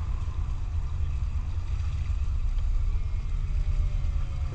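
Boat engine running steadily under way, a low rumble.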